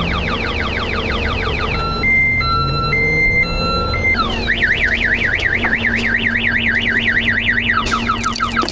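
Car alarm siren cycling through its tones. Fast repeated falling chirps give way about two seconds in to alternating high-low beeps, then a rapid up-down warble, then fast chirps again near the end.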